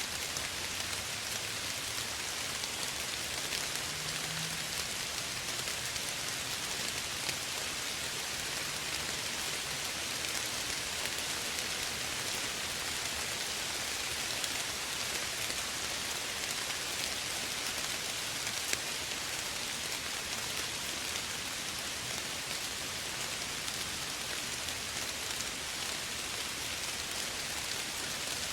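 Steady soft rain falling, a dense even patter of many fine drops.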